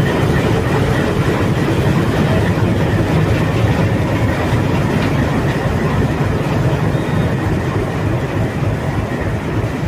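Arriving passenger train rolling along the platform: a steady, loud rumble of wheels on rail with clattering over the joints, easing slightly near the end.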